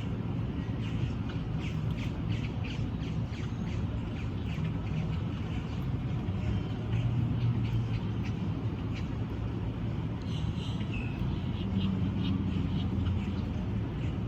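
Small birds chirping in quick short notes over a steady low rumble of traffic.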